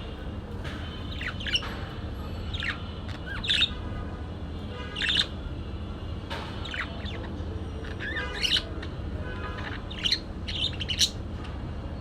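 Bird giving short chirping calls at irregular intervals, about a dozen in all, the loudest coming in clusters over a steady low hum.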